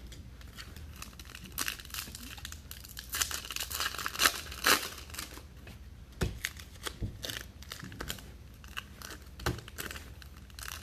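Trading-card pack wrappers crinkling and tearing as packs are ripped open by hand, with irregular crackles and a few sharper rips.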